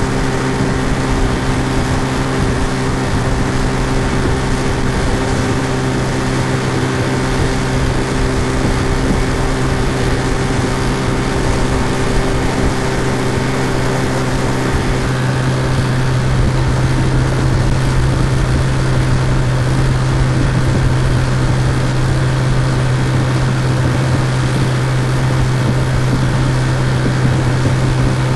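Outboard motor running at steady speed, a looped sound-effect drone with a strong low hum. About halfway through its tone shifts slightly as a few higher pitched lines drop out.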